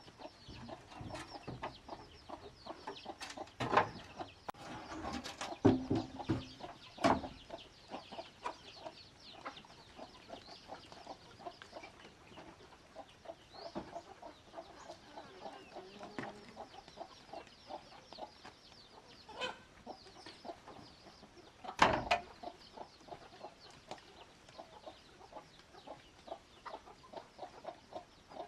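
Chickens clucking, with a few sharp knocks, the loudest about four, six, seven and twenty-two seconds in.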